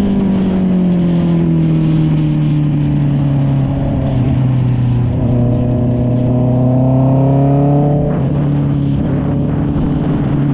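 Honda CB650R's inline-four engine through an SC Project exhaust while riding. The engine note sinks over the first few seconds as the bike slows, climbs again from about five seconds in under throttle, drops suddenly around eight seconds in as the revs fall away, then holds steady.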